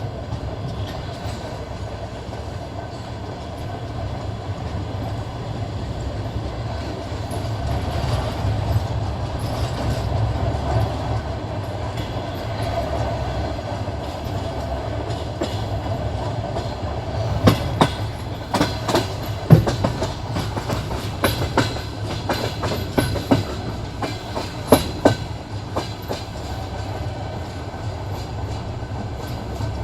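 Passenger train running on the rails with a steady low rumble and the clickety-clack of its wheels. In the second half comes a run of loud, sharp clacks as the wheels go over rail joints.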